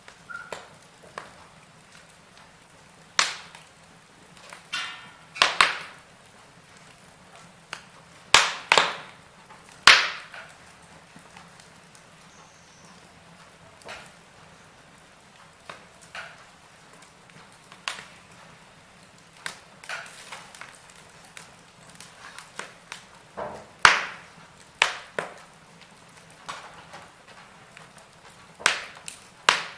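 Fire in a fireplace crackling, with sharp pops at irregular intervals over a faint steady hiss; the loudest pops come around a third of the way in and again past the three-quarter mark.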